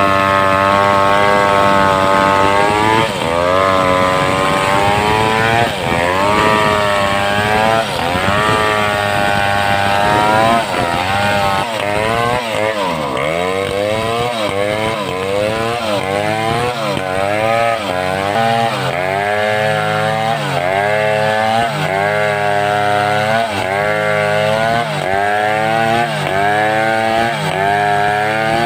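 Home-built two-stroke chainsaw cutting through wood under load, its engine pitch sagging and recovering over and over as the chain bites. In the second half the dips come in a steady rhythm a little more than once a second.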